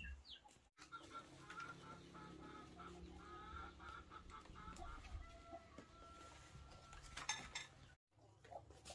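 Faint bird calls: a string of short, wavering calls, then a longer steady one, with a few light knocks near the end.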